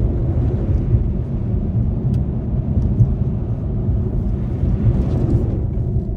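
Car driving, with a steady low rumble of engine and road noise. A hiss swells near the start and again about five seconds in.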